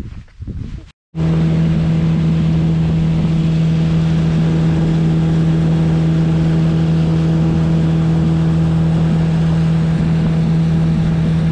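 Outboard motor of a small fishing boat running at a steady cruising speed with an even, unchanging drone. It starts abruptly about a second in, after a moment of scattered knocks and handling noise.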